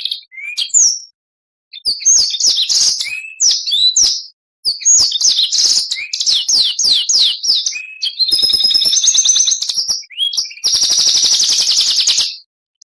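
Oriental magpie-robin (kacer) singing a fast, varied song: high trills, a quick run of downward-slurred whistled notes, and a long buzzy trill near the end, with brief pauses between phrases.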